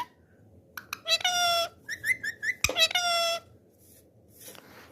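Parrot calling: a few short, high-pitched calls in quick succession, then a pause of about a second near the end.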